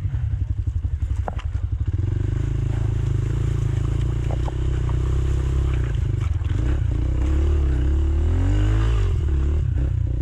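Rieju Marathon Pro 125 dirt bike engine pulling along a trail, its revs rising and falling with the throttle and loudest in the second half. A few sharp clicks sound over it.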